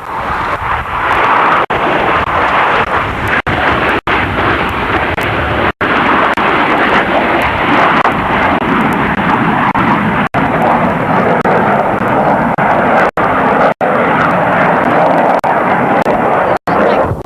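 Jet aircraft engine noise, loud and steady. It is broken by several very brief dropouts.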